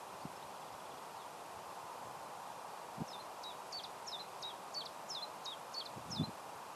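A small bird singing a run of about nine quick, high repeated notes, roughly three a second, over a steady outdoor hiss. Two short low thumps come about three seconds in and near the end, the second the loudest sound.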